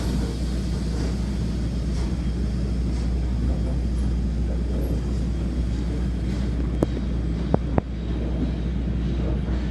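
Steady low rumble of a stopped train's idling engine, with three sharp clicks a little past the middle.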